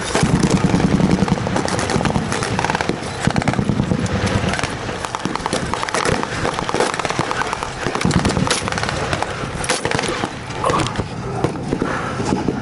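Blank-firing gunfire in a WWII battle re-enactment: a continuous, dense crackle of rifle and machine-gun shots, with some sharper, louder single reports among them.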